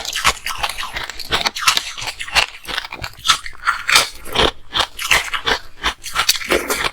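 Ice being bitten and crunched close to the microphone: a rapid, irregular run of sharp cracking crunches, several a second.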